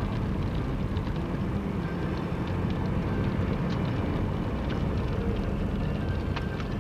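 Steady low rumble of a vehicle's engine and running gear, heard from inside the cab, with scattered faint ticks.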